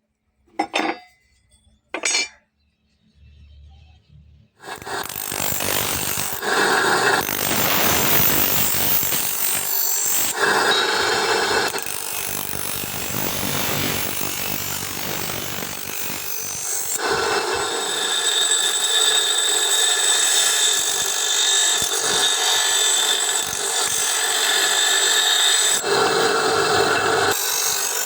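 Two sharp knocks, then from about four seconds in a grinder grinding steel from a bearing ring, running continuously with its sound changing several times along the way.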